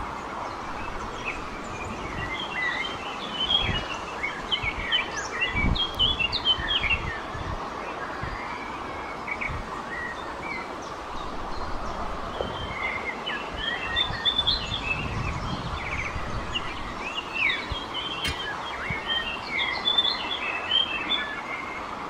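Small birds chirping in quick twittering runs over a steady background hiss, in two spells: one in the first seconds and a longer one through the second half.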